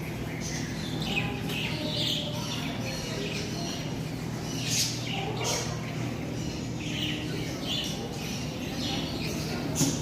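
Many birds chirping and tweeting, short calls overlapping one another, over a steady low hum.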